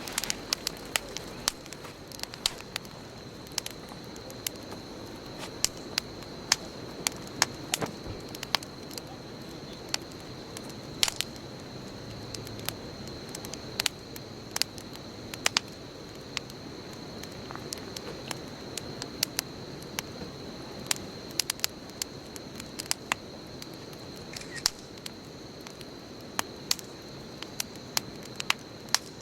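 Wood bonfire burning, crackling with irregular sharp pops and snaps, several a second at times, over a steady low rustle of the flames.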